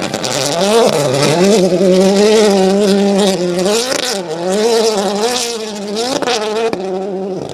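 Rally car engine revving hard under acceleration, its pitch climbing and holding, then dropping sharply and climbing again about four seconds in and twice more near the end.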